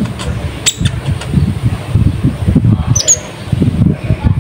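Konin (kolibri ninja sunbird) giving a few short, sharp, high chirps, one a little under a second in and another about three seconds in, over a loud, uneven low rumble.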